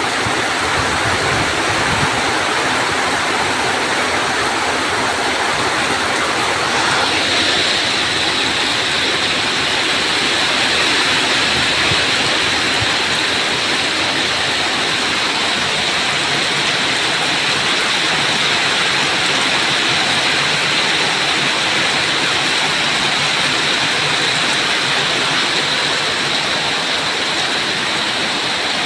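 Heavy rain pouring steadily as a dense, even hiss, turning brighter and hissier about seven seconds in.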